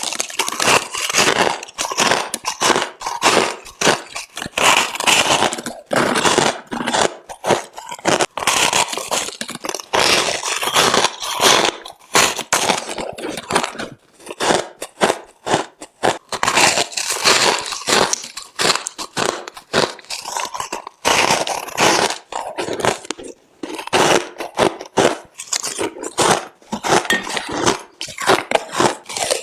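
Crushed ice being bitten and chewed up close, a dense run of loud crisp crunches and cracks with brief pauses between bites.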